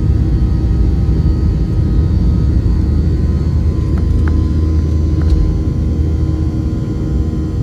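Boeing 737-700 cabin noise: a steady, loud rumble of the jet engines and airflow heard from inside the cabin, with a few faint ticks around the middle.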